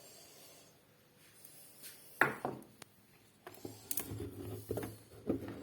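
Jars being handled and set down: one sharp knock about two seconds in, then a run of lighter clicks and knocks.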